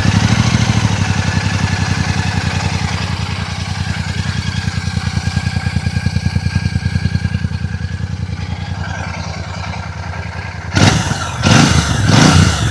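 Royal Enfield Classic 650's 648cc parallel-twin engine idling just after start-up, its exhaust giving an even, rapid low pulse. Near the end come a few quick throttle blips, each louder than the idle.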